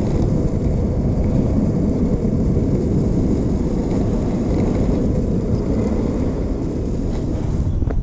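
Steady low rumble of skateboard wheels rolling over pavement, mixed with wind buffeting the microphone.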